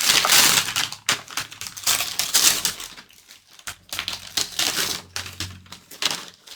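A package being torn and crinkled open by hand: irregular crackling and rustling of wrapping, in short spells with brief pauses.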